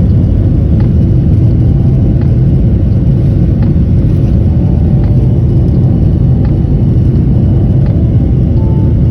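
Loud, steady low rumble of an Airbus A321neo heard inside the cabin during the takeoff roll: jet engines at high thrust and the wheels on the runway, with faint knocks repeating about every half second.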